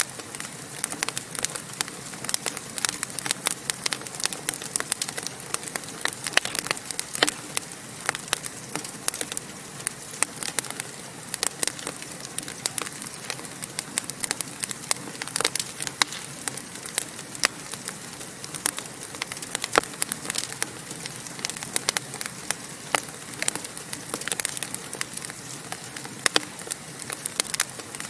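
Wood fire burning in a fireplace with a steady hiss and many sharp, irregular crackles and pops.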